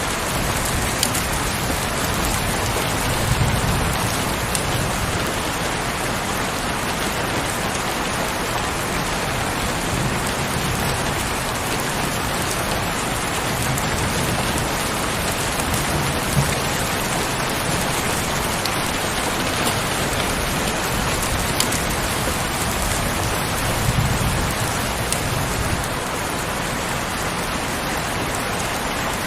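Heavy, steady rainfall, with a few sharper drop hits standing out now and then.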